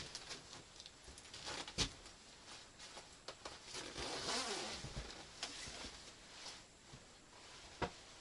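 Rustling and scattered sharp clicks and knocks, as of things being handled at close range. The strongest knocks come about two seconds in and near the end, with a longer rustle around the middle.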